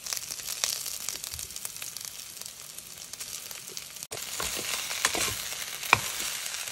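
Onion, green chilli and coriander sizzling and crackling in hot oil in a steel kadhai as crumbled boiled potato is added. A sharp click sounds about six seconds in.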